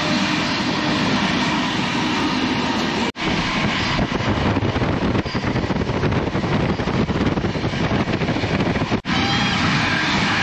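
Passenger train running at speed, heard at an open coach window: a steady rushing noise of wind and wheels on the track. It breaks off abruptly for an instant twice, about three and about nine seconds in.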